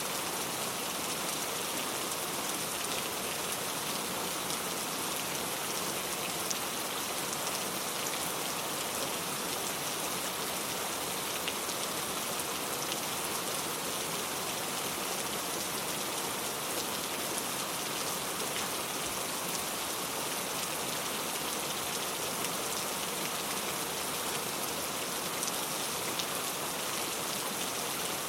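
Steady rain ambience: an even hiss of falling rain with faint scattered drop ticks.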